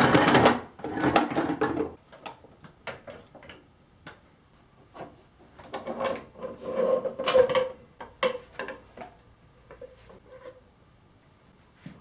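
Hand tools and metal parts being worked and handled while the wheels are taken off a motorcycle: irregular clanks, knocks and scraping, busiest near the start and again past the middle.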